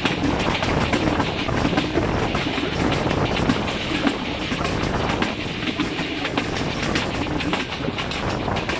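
Passenger train running at speed, heard from beside a coach window: a steady rumble of the coaches with rapid, irregular clicking of the wheels over the track.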